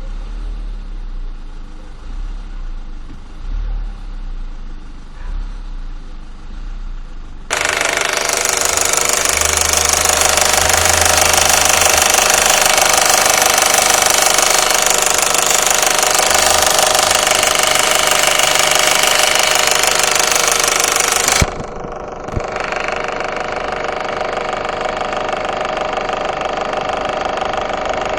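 Warm Audi 1.8T AVJ four-cylinder turbo engine idling, with a noise from behind the engine that the owner suspects is the cam chain tensioner or the oil pump. The sound becomes suddenly much louder and brighter about seven seconds in, then drops back partway about twenty-one seconds in.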